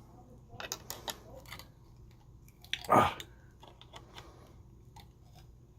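Small clicks and snaps of blob-chip packages being bent back by hand on their aluminum backing, with one louder creaking snap about three seconds in.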